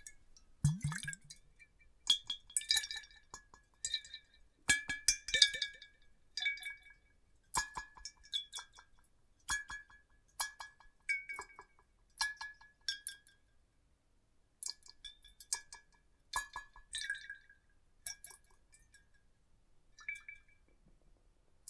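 Light glass clinks repeated irregularly, about one a second, each ringing briefly at the same high pitch, like ice or a glass being tapped against glass. There is a soft low thump about a second in.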